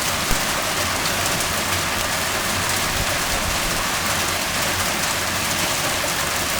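Heavy hail and rain pelting down in a dense, steady din of impacts, with faint separate ticks of hailstones through it.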